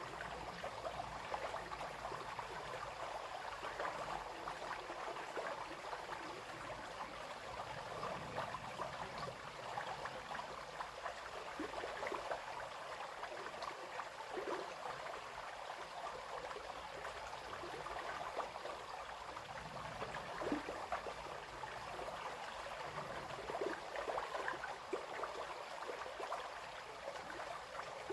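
Small brook flowing and babbling steadily over stones, with little splashes throughout.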